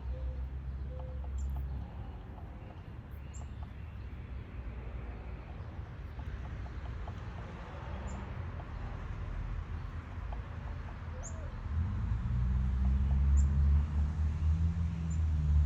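Black-capped chickadee at a wooden birdhouse, giving brief high-pitched notes every couple of seconds over faint scattered tapping. A low rumble rises from about two-thirds of the way in and becomes the loudest sound.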